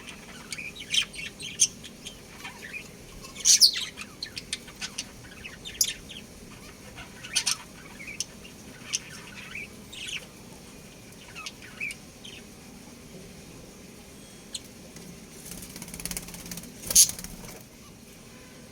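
Budgerigars chirping in short, scattered high calls, with a louder burst a few seconds in and another near the end.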